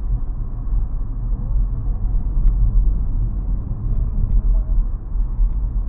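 Steady low road and engine rumble inside the cabin of a moving 2017 Nissan Rogue SUV.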